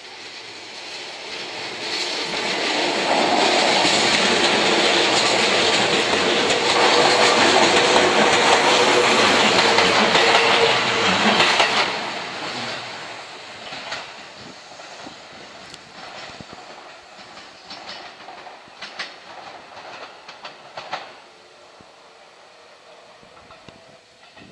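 Seibu 9000 series electric commuter train approaching and passing close by, loudest for about nine seconds. It fades quickly as it draws away, leaving a run of sharp wheel clicks over the rail joints.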